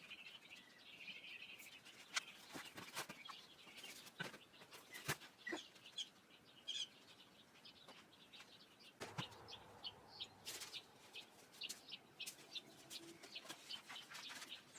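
Faint scattered bird chirps over a quiet outdoor background, with many light clicks and rustles throughout.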